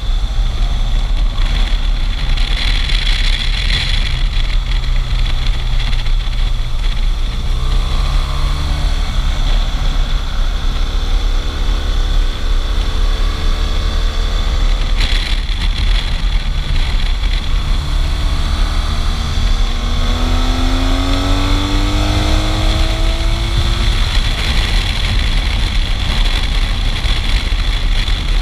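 Motorcycle on the move: a steady heavy rumble of engine and wind. The engine's pitch climbs under acceleration a few times, most plainly about two-thirds of the way through.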